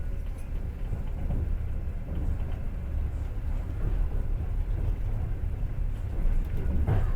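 Passenger train running, heard from inside the carriage: a steady low rumble of wheels on the rails, with a few faint knocks near the end.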